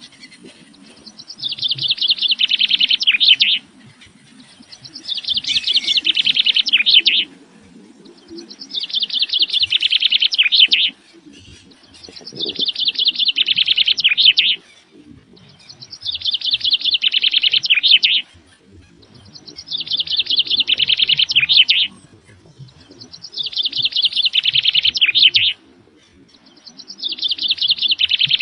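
Bird calls: a high, fast-pulsed chatter lasting about two seconds, repeated eight times at very even intervals of a little under four seconds.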